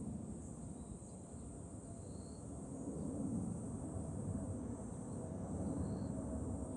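Chorus of cicadas singing in summer, a steady high buzz that swells and eases slowly, with wind rumbling on the microphone and growing stronger about halfway through.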